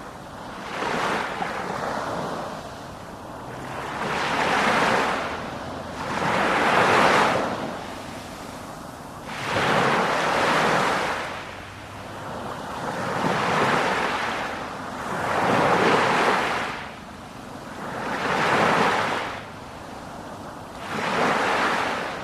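Sea surf: waves washing in one after another, each swelling up and falling away every two to three seconds, about eight times.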